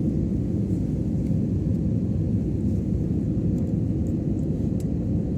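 Airliner cabin noise on approach to landing: a steady low rumble of engines and airflow with a faint steady hum running through it.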